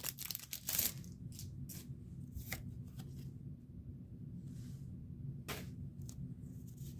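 Crinkling of a foil booster pack for about the first second, then scattered soft swishes and clicks of Pokémon trading cards being slid one behind another in the hand.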